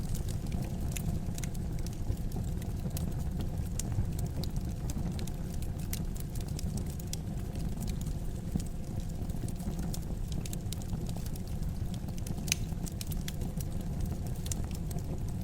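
Wood fire crackling in a fireplace: frequent sharp pops and snaps over a steady low rumble of the flames, with a few louder pops.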